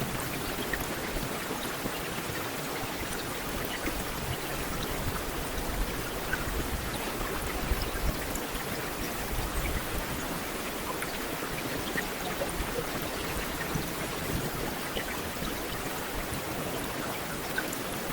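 Heavy rain falling steadily on a street, a dense hiss of rain with individual drops ticking throughout.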